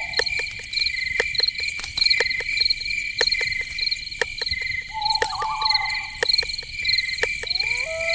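Crickets chirping in steady, evenly pulsed trills at two pitches, over a run of sharp clicks at an uneven pace. A short animal call comes about five seconds in, and near the end another call rises in pitch and then holds.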